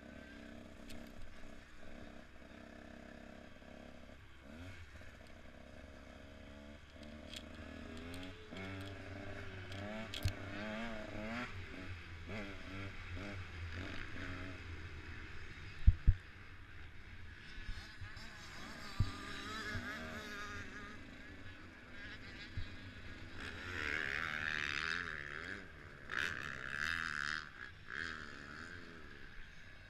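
Motocross bike engine revving up and down, with two sharp knocks a few seconds apart past the middle.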